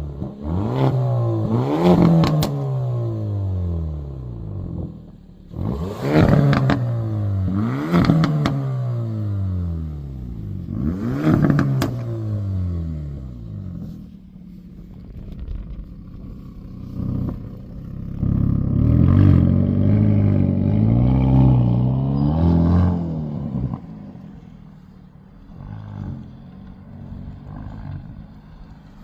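Hyundai i30 N's turbocharged 2.0-litre four-cylinder engine revved in several quick blips, each rising sharply and sinking back, with sharp cracks from the exhaust at the peaks. Later it is held at raised revs for about five seconds, then drops back to a low idle.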